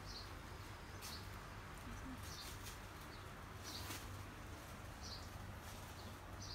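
A bird chirping: short high chirps about once every second or so, over a steady low hum.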